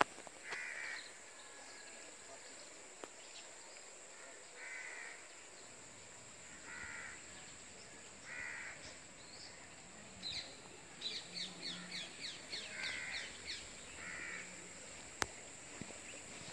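Birds calling outdoors: a series of short calls repeated every second or two, with a quick run of high chirps, about four a second, partway through.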